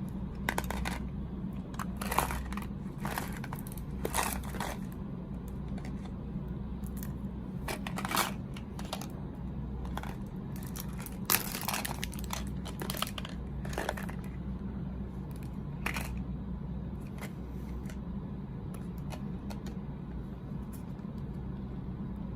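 Plastic snack wrapper being handled, crinkling and tearing in irregular bursts of crackles, busiest in the first two-thirds. A steady low hum runs underneath.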